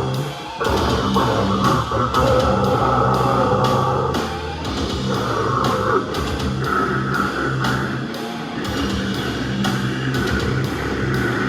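Grindcore band playing live: fast drum kit hits over distorted electric guitars and bass, with a brief break just after the start.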